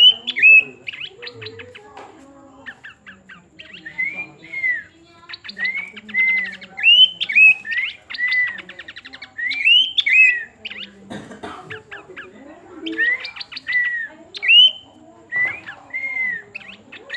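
A planduk semak bird calling in repeated bouts: fast dry rattling chatters alternating with short arched whistled notes.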